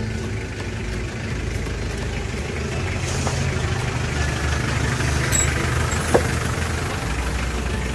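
A steady low engine rumble, like an engine idling, with a short sharp knock about six seconds in.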